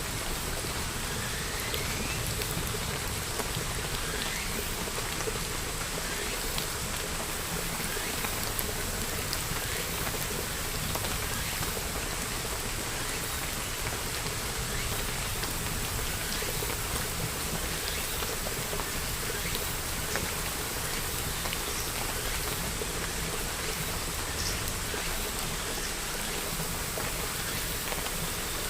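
Steady rain falling: an even, continuous hiss with scattered ticks of individual drops.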